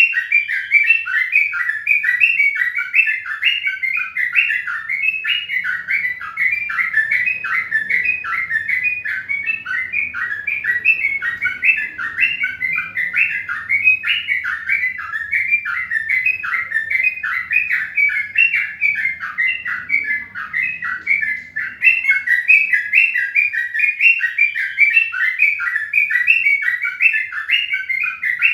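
A bird chirping in a fast, steady, unbroken series, about three short chirps a second.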